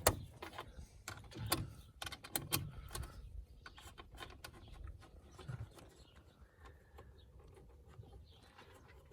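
Scattered light clicks and small knocks of a Torx driver and hands working the fastening screws of a car's plastic engine cover, with a few sharper knocks in the first three seconds.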